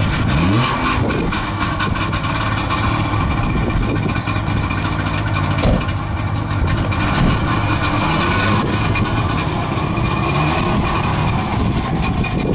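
Saab 96 Monte Carlo 850's three-cylinder two-stroke engine running, revved up and down a few times with rising and falling pitch between stretches of fast idle. A car door shuts with a thump about halfway through.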